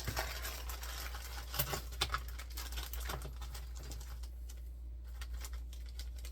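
Packaging and box contents being handled and moved aside: rustling with many light clicks and taps, busiest in the first two and a half seconds, then sparser.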